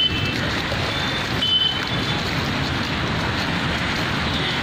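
Steady rushing noise of rain and floodwater on a waterlogged street, with traffic. A brief faint high squeal comes about a second and a half in.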